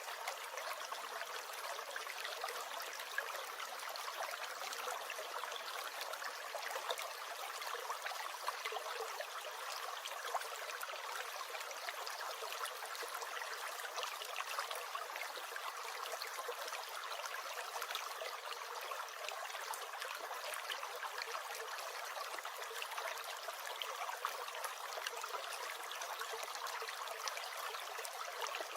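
A small stream gurgling and trickling steadily, with fine bubbling and splashing.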